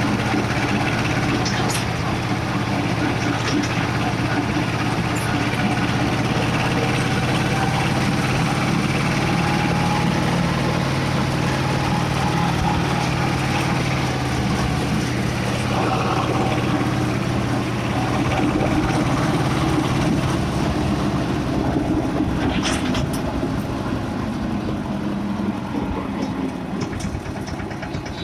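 Escorts 335 tractor's diesel engine running steadily under way, a continuous low drone that shifts and eases slightly about twenty seconds in.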